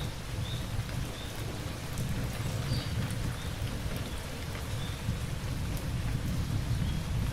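Steady heavy rain with a continuous low rumble of thunder underneath. Short high chirps, about one a second, sound over the rain.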